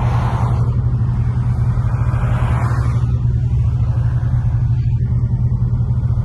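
Infiniti G37's 3.7-litre V6 running at a steady speed while the car cruises, a constant low exhaust hum with road noise, heard from inside the car.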